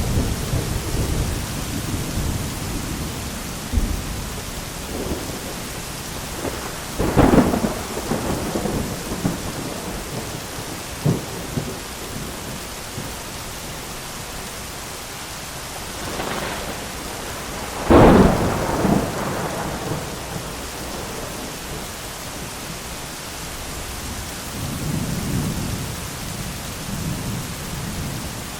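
Thunderstorm: steady heavy rain with rolling thunder, and two sharp close lightning cracks, about seven and eighteen seconds in, each rumbling away for a couple of seconds; a smaller crack comes about eleven seconds in.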